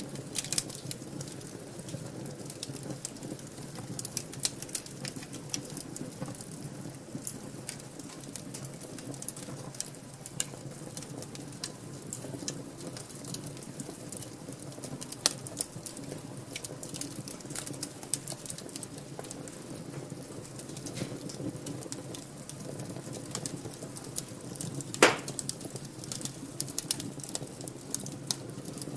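Wood fire burning in a fireplace: irregular crackling and small pops over a low, steady flame rumble, with one louder pop near the end.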